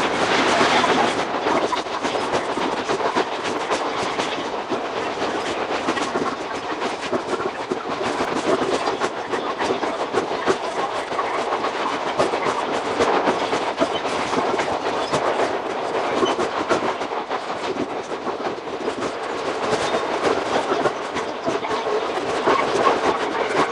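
Iga Railway 200 series electric train (ex-Tokyu 1000 series) running on the line, with a steady rumble of wheels on rail and a dense, continuous clatter of wheels over rail joints.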